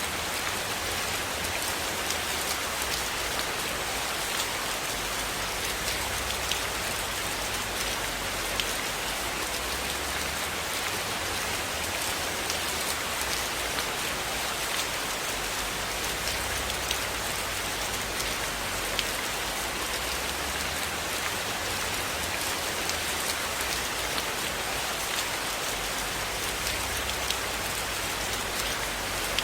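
Steady rain falling on a roof, an even hiss with scattered sharp drop ticks.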